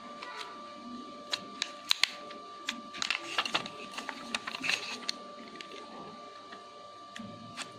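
Small tools and fingers clicking and tapping against a smartphone's plastic and metal internals while it is being taken apart, a scattered run of sharp clicks that comes thickest about halfway through.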